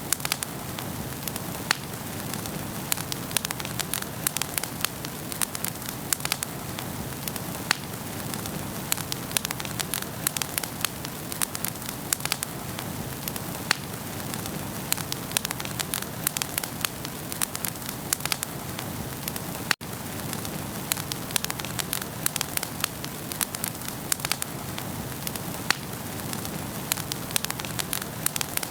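Wood fire burning in a fireplace: a steady low rush of flame with frequent sharp crackles and pops. The sound cuts out for an instant about two-thirds of the way through.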